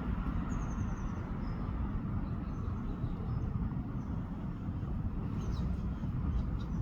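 Sparrows chirping faintly: a quick run of high notes near the start, scattered short chirps, and a sharp falling chirp about two-thirds through. A steady low rumble underneath is the loudest sound.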